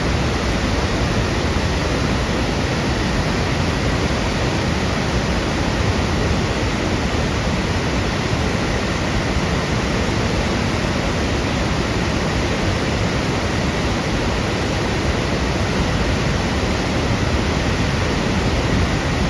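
Water pouring down from a dam, a steady unbroken rushing.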